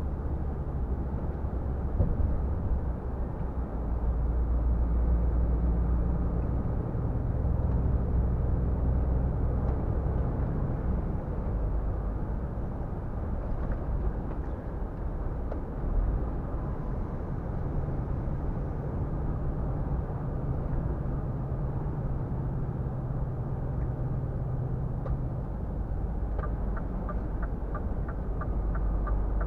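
Scania R450 truck's 13-litre six-cylinder diesel running at cruising speed, a steady low drone with road noise. Near the end a regular ticking starts, about three ticks a second.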